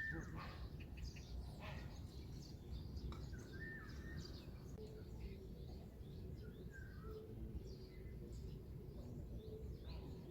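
Small birds chirping and calling, short scattered chirps with a few brief whistled notes, over a steady low outdoor rumble.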